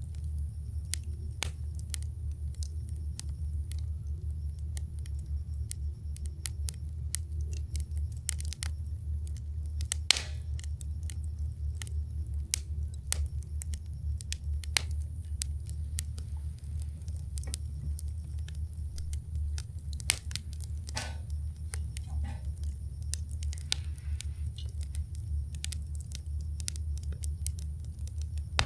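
Wood campfire crackling, with irregular sharp pops (a few louder ones about ten and twenty seconds in) over a steady low rumble.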